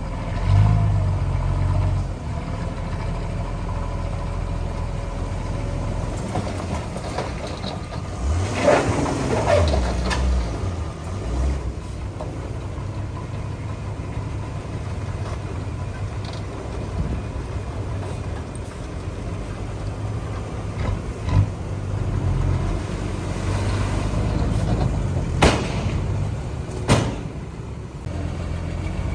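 Heavy construction machine's diesel engine running steadily, with a louder rough stretch about a third of the way in and two sharp knocks near the end.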